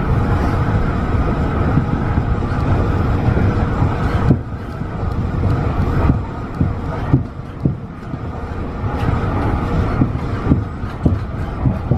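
Running noise of a Tobu 50090-series electric train under way: a steady rumble of wheels and running gear. From about four seconds in it drops a little and is broken by a string of short sharp knocks from the wheels on the track.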